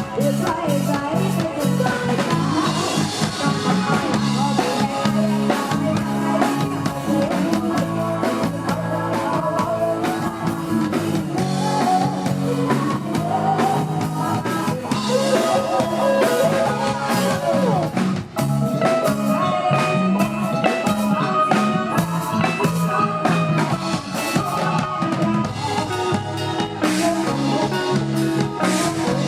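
Live band music with drum kit and guitar and some singing, played loud at a concert.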